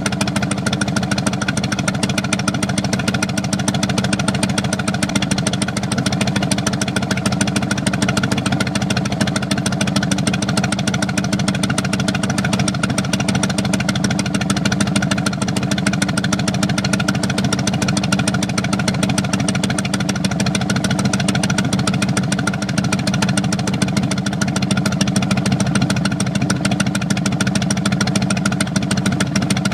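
Harley-Davidson FLTRX V-twin exhaust idling steadily at about 800 rpm, with a clear, distinct beat after a TTS MasterTune fuel-injection tune.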